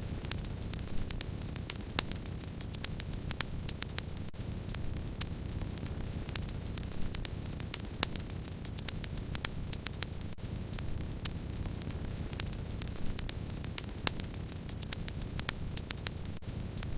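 Wood fire burning: a steady low rush with frequent sharp crackles and occasional louder pops at irregular intervals.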